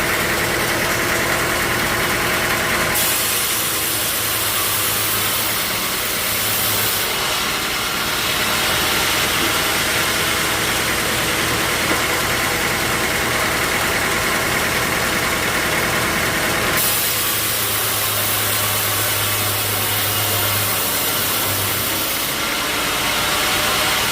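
Sawmill machinery running steadily: an engine-like hum with a higher whine above it. The sound changes character abruptly several times.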